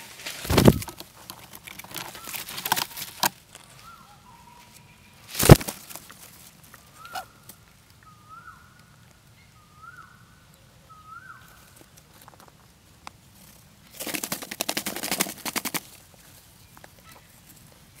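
Birds: sharp knocks and rustling, a series of about six short whistled notes that each rise and then hold, and near the end a two-second flurry of rapid flapping.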